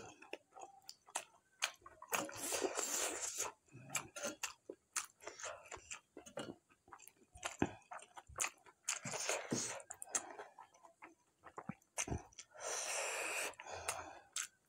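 Close-miked chewing and wet mouth sounds of someone eating mutton curry and dhido. Short smacking clicks are broken by a few spells of chewing lasting a second or so.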